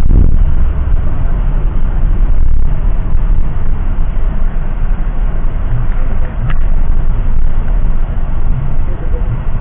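Steady low rumble of road and engine noise heard from inside a moving car, with a brief click about six and a half seconds in.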